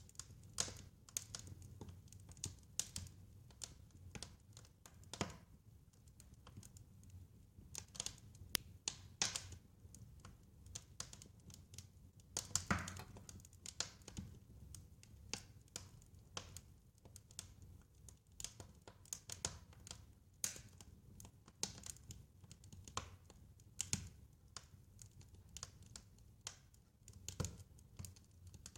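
Wood fire crackling in a fireplace: irregular sharp snaps and pops, several a second, over a soft low rumble, with one louder pop about halfway through.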